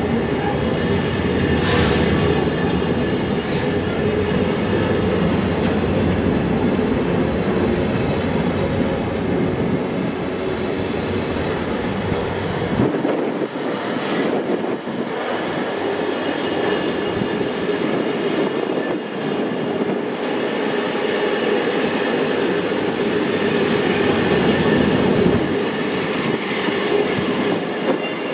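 Container flat wagons of an intermodal freight train rolling past close by: a steady loud noise of wheels on rail, with a few short knocks. The deep rumble drops away about halfway through.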